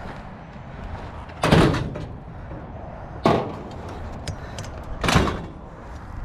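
Three loud bangs, a little under two seconds apart, each with a short rattling tail.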